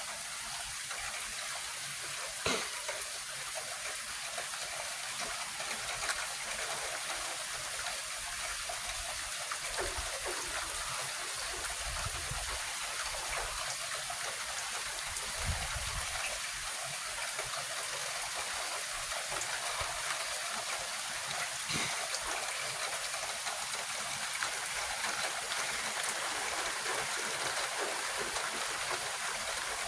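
Steady rain falling during a thunderstorm, heard as an even hiss. There are a few sharp taps scattered through it and brief low rumbles about ten and fifteen seconds in.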